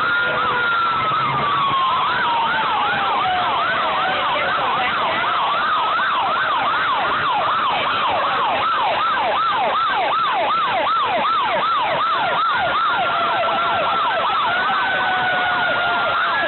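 Several fire truck sirens sounding at once: a slow wail rising and falling, then a fast yelp of about three sweeps a second through the middle, ending with a steady held tone.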